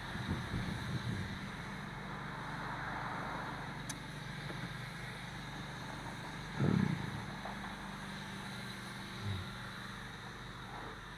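Car noise: a steady engine-and-road hum, with a brief low thump a little over halfway through and a smaller one later.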